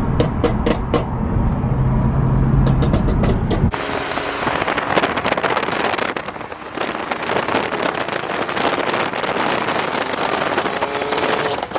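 BMW M cars' exhausts rumbling and crackling with sharp pops for the first few seconds. Then the rumble drops out abruptly and a loud rushing noise of wind on the microphone takes over.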